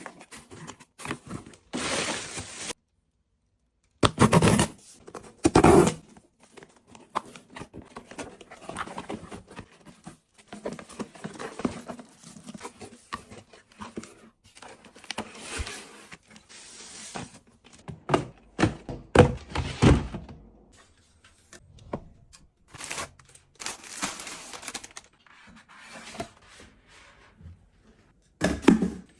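A run of handling sounds as items are moved and set down: short knocks and thunks, with rustling in between.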